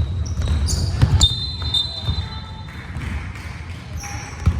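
Basketball bouncing on a gym floor during play, with a few dull thumps and the loudest near the end. About a second in there is a high squeak of sneakers on the court, among general court noise.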